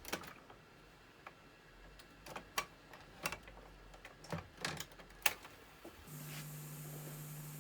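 Clicks and clunks of the Panasonic RX-FT590 boombox's buttons and switches being worked, about a dozen spread over five seconds. A steady low hum with hiss comes on about six seconds in.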